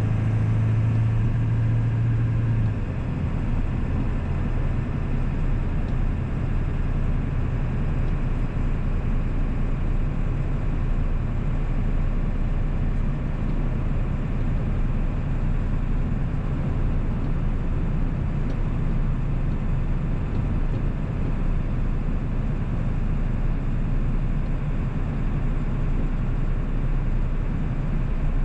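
A 1997 Ford 7.3 Powerstroke turbo-diesel V8 driving along. A strong steady engine note lasts the first few seconds, then settles into an even low rumble with road noise.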